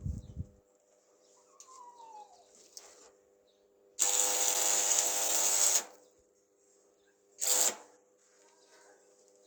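A power tool runs in a steady burst of about two seconds, then again briefly about a second and a half later. There are a few knocks at the start and a faint falling squeak before the first run.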